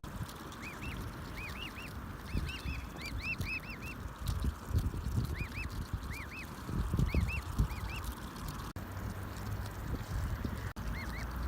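Goslings peeping: many short, high, arched peeps in quick pairs and triplets, over a low background rumble.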